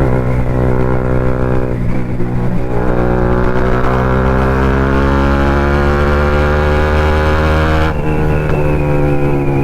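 Bajaj Pulsar NS200's single-cylinder engine through an aftermarket Akrapovic-style full-system exhaust, ridden under throttle: a brief break for a gear change about two seconds in, a steady pull with the revs slowly rising, then the throttle closes near the end and the revs fall away.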